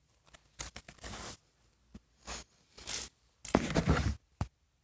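Toy packaging rustling and crinkling in short bursts as small items are unwrapped and handled, with a sharp click near the end.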